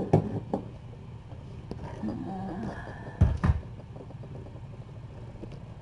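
Knocks and thumps of things being handled: two light knocks at the start and two louder thumps about three seconds in.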